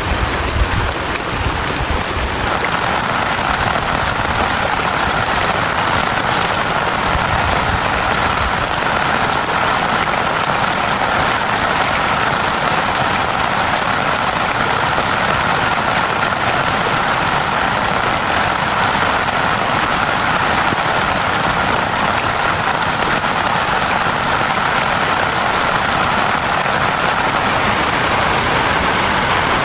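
Heavy rain falling steadily, a dense even hiss, with a few low thumps in the first couple of seconds.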